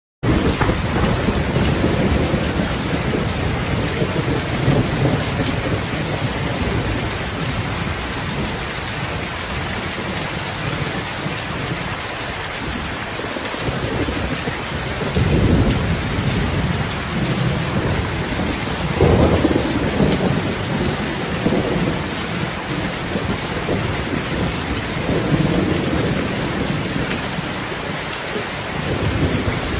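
Heavy rain falling steadily, with low rolls of distant thunder that swell and fade several times.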